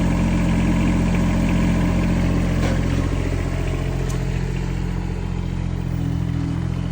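Rippa R15 mini excavator's engine running steadily.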